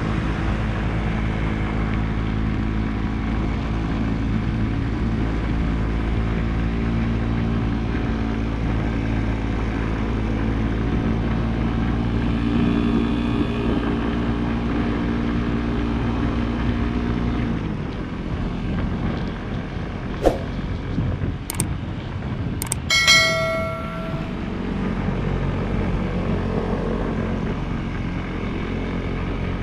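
Motorcycle engine running steadily under way, its note dropping away about two-thirds of the way through as the throttle eases. Then come a few sharp clicks and a short, pitched beep.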